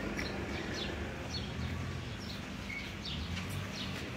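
Small birds chirping: a run of short, high, falling chirps every few tenths of a second, over a steady low hum of outdoor background noise.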